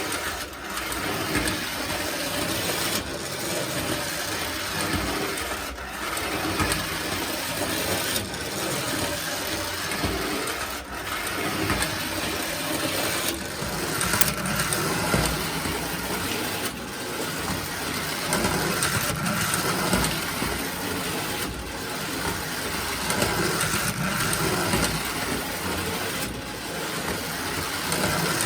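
Postwar Lionel gang car's small electric motor running along toy train track: a steady mechanical running noise, dipping briefly every two to three seconds, with a faint steady whine joining about halfway through.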